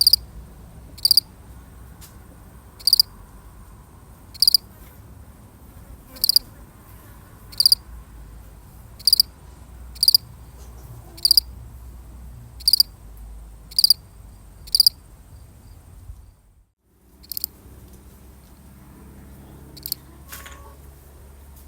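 A single cricket chirping, one short high chirp about every second or so. The sound cuts out briefly about two-thirds of the way through, and the chirps come more sparsely after that.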